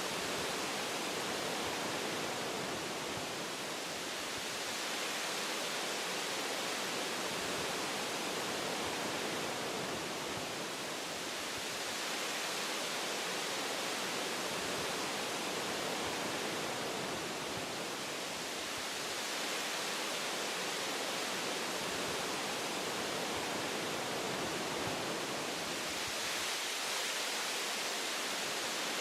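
Wind blowing through forest tree branches: a steady rushing noise that eases and swells slowly every several seconds.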